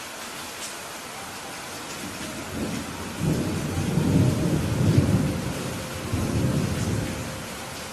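Steady rain hiss with a roll of thunder that rumbles in about two and a half seconds in, swells to its loudest midway and dies away near the end.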